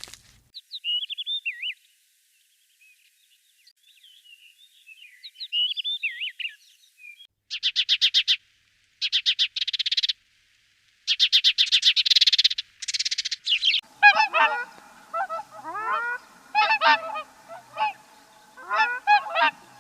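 Animal calls: a few seconds of high squeaky chirps, then several bursts of rapid trilling, then a string of short honking calls that slide up and down in pitch.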